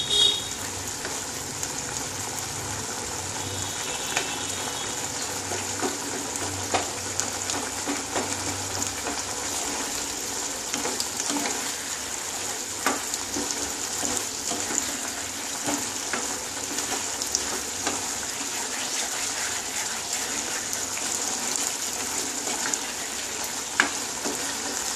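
A pumpkin and potato curry sizzling and bubbling in a pan while a wooden spatula stirs it, with many light scrapes and taps of the spatula against the pan. The last of its cooking water is reducing as it is stirred.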